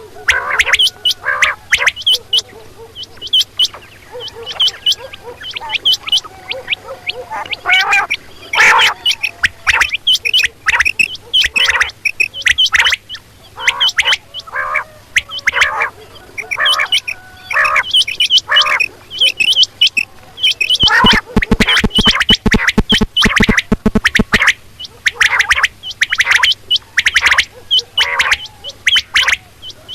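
Quail calling over and over in quick, loud, short notes, with a fast rattling run of notes about two-thirds of the way through and a faint steady hum underneath.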